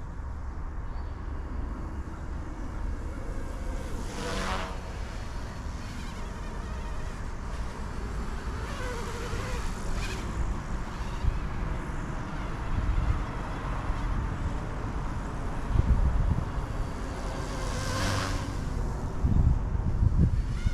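E150 micro RC helicopter's direct-drive brushless motor and rotors buzzing in flight, with two brief louder swells, about four seconds in and near the end, over a low rumble.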